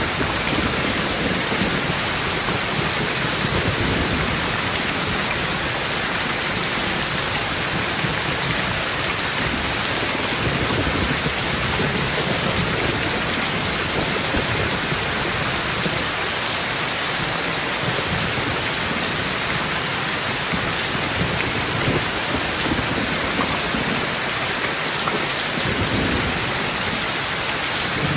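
Heavy rain falling steadily, with low rolling thunder rumbling underneath, stronger in the first half and fading later on.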